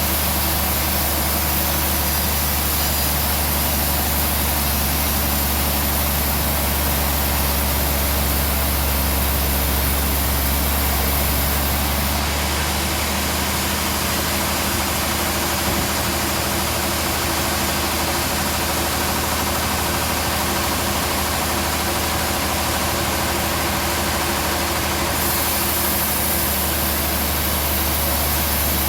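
Band sawmill running steadily, with a constant low hum under a broad hiss. The hiss drops about twelve seconds in and comes back near the end.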